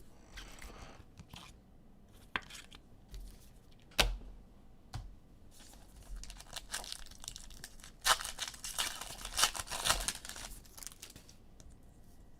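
Trading-card pack wrapper being torn open and crinkled, with a few sharp clicks and taps along the way. The main burst of tearing and crinkling comes about eight seconds in and lasts about three seconds.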